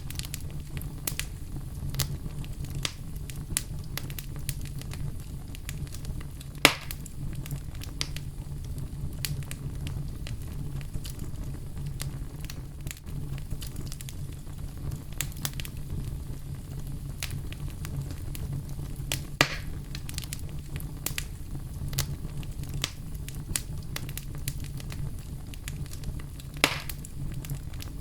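Wood campfire burning: a steady low rumble with frequent small crackles, and three louder pops spread through it.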